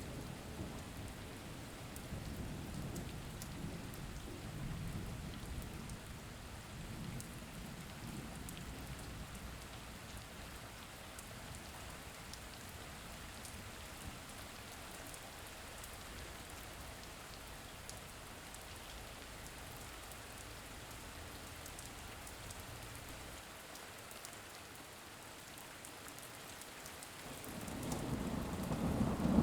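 Steady rain falling, with a low rumble of thunder in the first several seconds and another thunder rumble swelling near the end.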